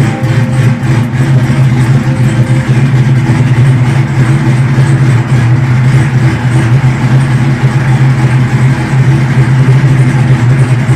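Cadillac CTS-V's rebuilt supercharged 6.2 L LSA V8, fitted with an aftermarket cam and long-tube headers, idling steadily and loudly.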